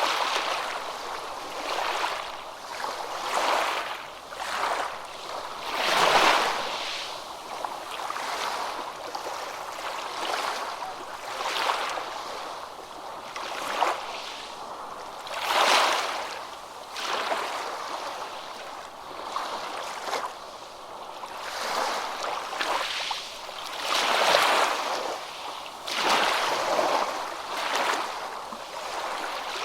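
Sea waves washing in and drawing back, a rushing noise that swells and fades every few seconds, with three bigger waves among them.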